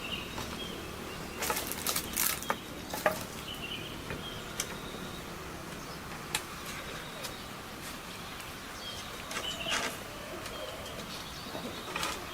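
Irregular knocks and clatters, a quick cluster about a second and a half in, then single ones spaced out, with a few more near the end, over faint chirping.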